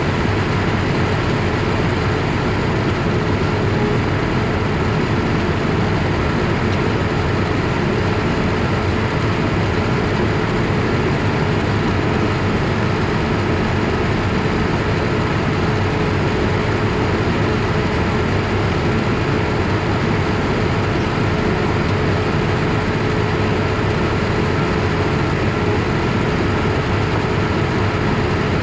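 Steady jet engine and rushing air noise heard inside the cabin of a Boeing 787-8 Dreamliner, with a faint steady hum in it and no change in level.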